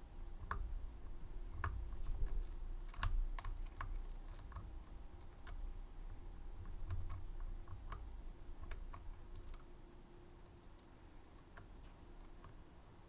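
Small, irregular metallic clicks and handling noise from tools working a Medeco M3 high-security lock cylinder. The clicks thin out in the last few seconds.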